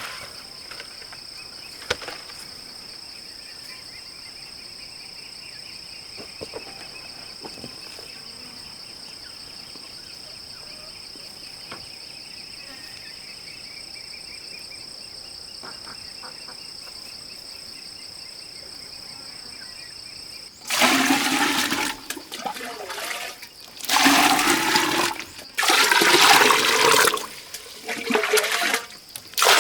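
Insects trilling steadily in two high, even tones. About twenty seconds in this gives way to about five loud rushes of gushing, splashing water, each a second or two long with short breaks between.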